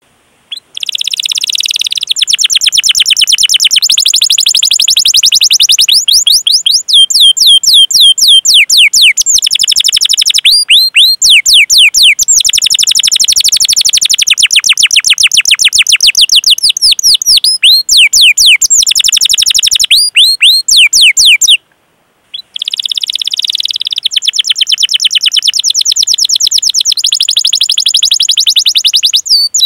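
Canary singing long, fast rolled trills of rapid repeated chirps ('cuit cuit'). The song breaks off briefly about two-thirds of the way in, then resumes.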